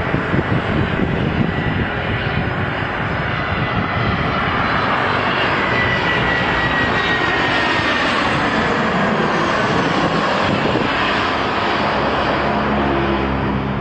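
Airplane flying overhead: a steady engine roar with a high whine that slowly falls in pitch as it passes.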